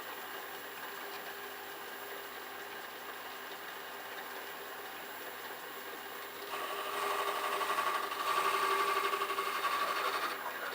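Metal lathe running steadily. About six and a half seconds in, the ball-turning tool bites into the steel and the cutting noise rises louder, with a steady ringing tone, for about four seconds. It stops shortly before the end.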